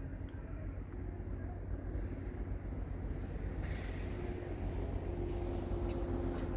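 Strong wind buffeting the microphone, a steady low rumble, with a few sharp clicks near the end.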